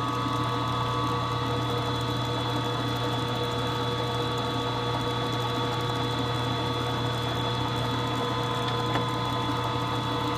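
Milling machine spindle running with a steady hum and whine while a center drill spots a bolt hole in a small engine cylinder head.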